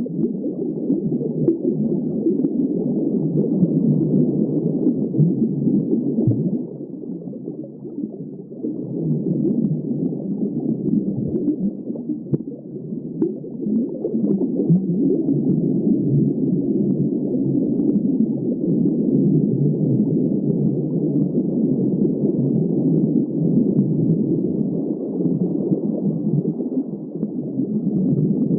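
Muffled underwater water noise: a steady, dull rushing with dense crackling, all low and dull with no high end, dipping slightly about a quarter of the way through.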